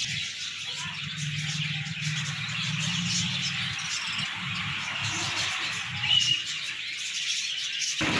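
Many small cage birds chirping together in a dense chatter, over a low steady hum.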